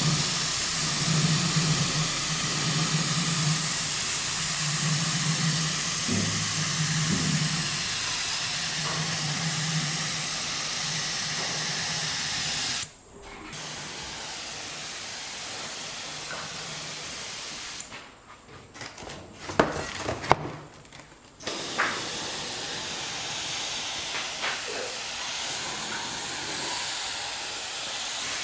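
A steady spraying hiss with a low hum pulsing on and off beneath it for the first dozen seconds. The hiss cuts out briefly about halfway and again for a few seconds later, with a few sharp clicks in that gap, then starts again.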